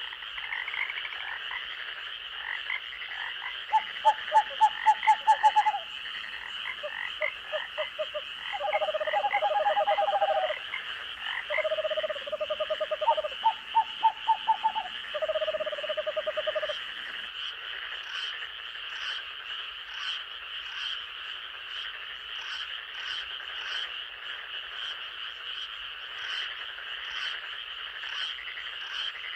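Night chorus of frogs: a steady high-pitched trilling drone throughout, with loud, rapid pulsed croaks coming in bouts between about four and seventeen seconds in. In the last ten seconds a short high chirp repeats about twice a second over the drone.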